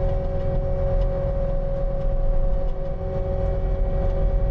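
Skid steer's diesel engine running steadily under load, with a steady whine over the low rumble.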